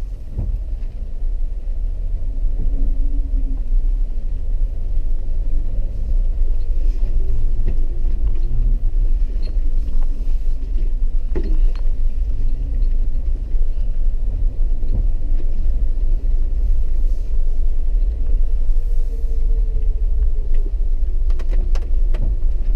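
Low, steady rumble of a four-wheel-drive vehicle driving slowly over a rutted, muddy dirt road, heard from inside the cabin, with scattered knocks and rattles from the bumps.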